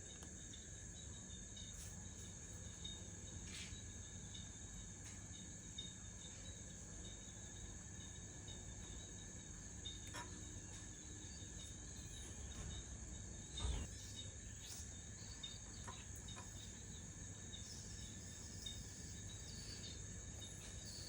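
Steady, high-pitched insect chorus, with a few faint clicks and a soft thump about 14 seconds in.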